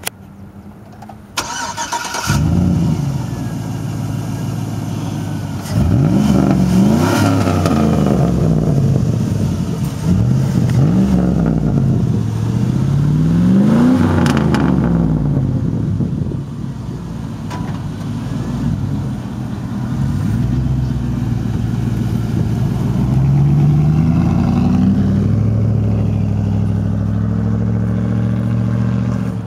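Chevrolet Silverado 5.3L V8 with the muffler replaced by a straight pipe: the engine starts about two seconds in, then is revved up and let fall back several times between stretches of idle.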